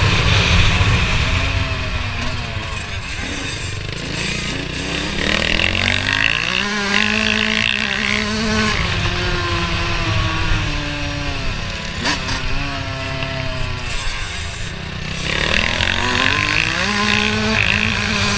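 Motocross bike engines revving up and down through the gears, the pitch climbing and dropping again and again. The sound swells louder about five seconds in and again near the end.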